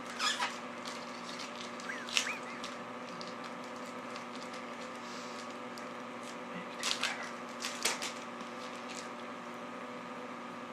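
A few short crinkles and rustles of foil booster packs and trading cards being handled, over a steady background hum.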